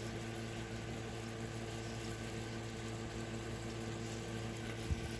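A steady machine hum: a low drone with several steady tones above it, unchanging throughout, and a brief low thump near the end.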